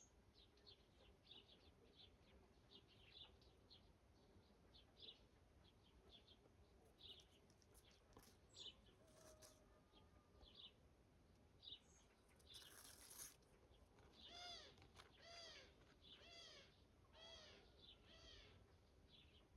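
Faint birdsong: repeated short, high chirps throughout, joined about two-thirds of the way in by a run of five arched calls that rise and fall in pitch, each lasting about half a second.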